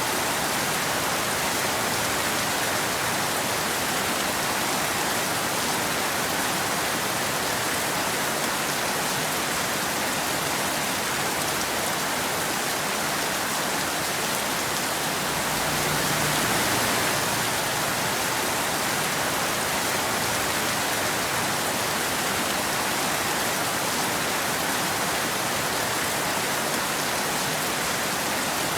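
Steady rain falling, an even hiss of drops on a surface, swelling slightly about halfway through.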